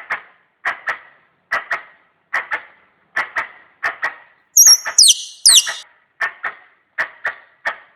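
Squirrel calls used as a hunting lure: a steady run of sharp double chucks, a pair about every three-quarters of a second, broken about halfway through by a few loud, high, falling squeals.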